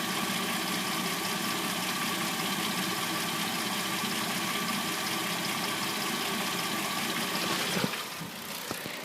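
Warmed-up replacement engine of a 2006–09 Hyundai Sonata idling with a light clacking, which the owner assumes is the timing chain. About eight seconds in there is a sharp click and the sound drops.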